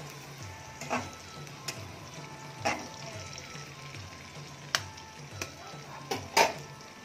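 Onions, capsicum and green chillies frying in oil in a metal kadai, a light steady sizzle. A handful of sharp clinks and scrapes against the pan come at irregular moments, the loudest near the end.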